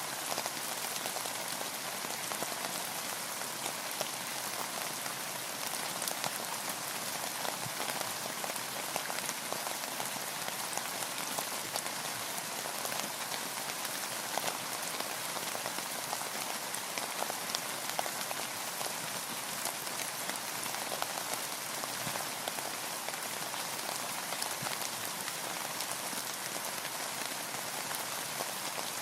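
Steady rain falling on a boat: an even hiss of rainfall with many small, sharp drop ticks scattered throughout.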